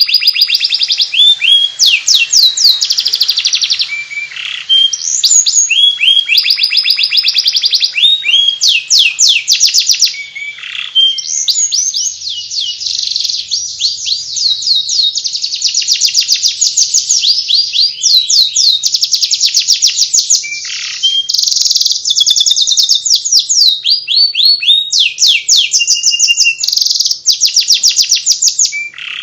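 Domestic canary singing in the ngriwik style: a continuous, fast twittering song of rapidly repeated sweeping notes and trills, high-pitched, with only brief pauses.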